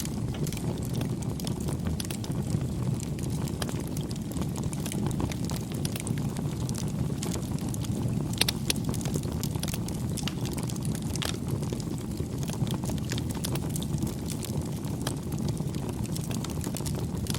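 Campfire burning: a steady low rumble of flames with scattered crackles and pops, a few sharper pops around the middle.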